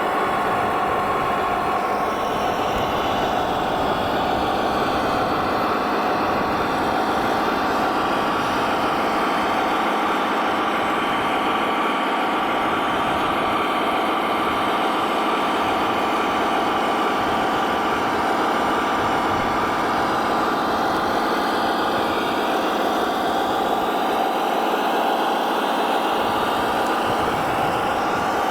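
Radio-controlled construction vehicles running: a steady mechanical drone with several held whining tones and no pauses.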